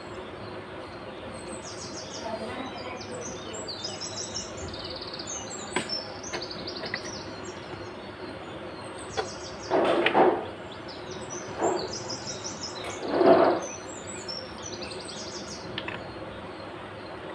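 Small birds chirping over and over, with a few light clicks and two louder, short noisy bursts about ten and thirteen seconds in.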